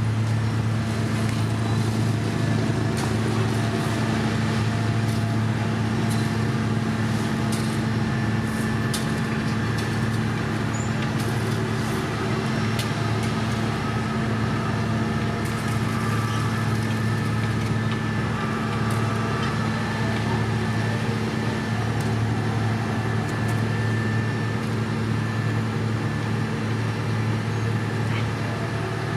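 Diesel engine of heavy road-paving machinery running steadily with a constant low hum, with a few faint clicks and knocks over it.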